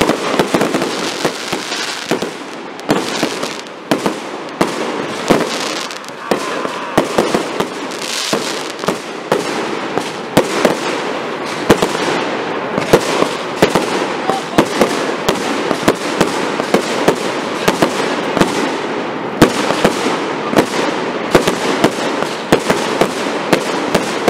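Professional aerial fireworks display: a continuous barrage of shell bursts and crackling, with sharp bangs coming several times a second and the loudest reports standing out every second or so.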